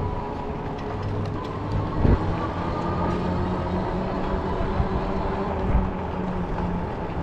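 Folding fat-tire e-bike under way: the electric motor's steady whine over the rumble of the tyres, with a couple of bumps about two and six seconds in.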